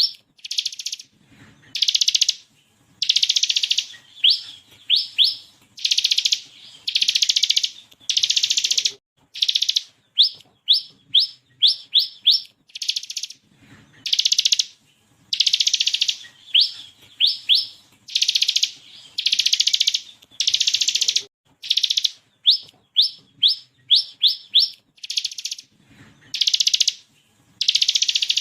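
Ciblek kristal (bar-winged prinia) singing steadily: quick runs of four or five short upward-sweeping chirps alternate with longer, harsh rattling trills, the 'ngebren' machine-gun bursts prized by bird keepers.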